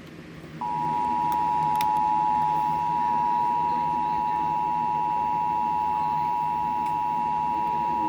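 Emergency Alert System attention signal on a radio broadcast: the two-tone alert, a steady dual tone near 850 and 950 Hz, starts about half a second in and holds unbroken. It announces a warning message about to be read.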